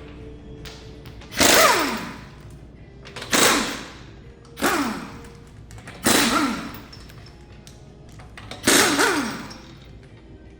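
Five loud sudden hits over background music, each with a tone that falls in pitch and fades within about a second.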